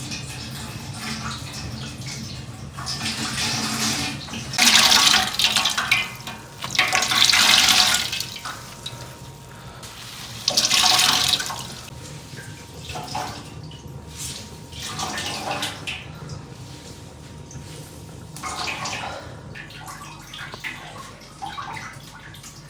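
Water pouring or running in several short splashing spells, the loudest three in the first half, quieter splashes after.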